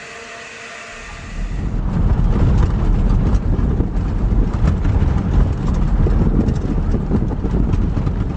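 Loud low rumbling with rattling knocks, starting about a second in, like a vehicle running on a rough road.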